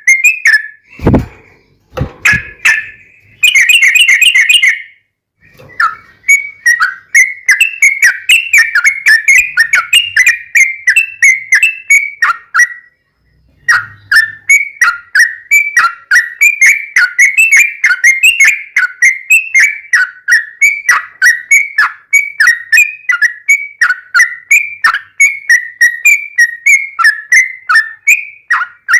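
Yellow-vented bulbul (trucukan) singing a long, fast chattering song of short bubbly chirps, about three to four notes a second, with a short break about thirteen seconds in. Two dull thumps sound near the start.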